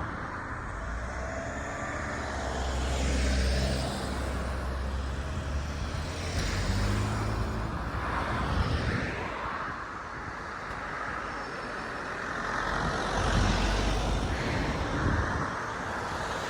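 Car on the road heard from inside the cabin: steady low engine and tyre rumble, with louder swells of road noise about three seconds in, around seven seconds, and again near the end, as of other vehicles passing.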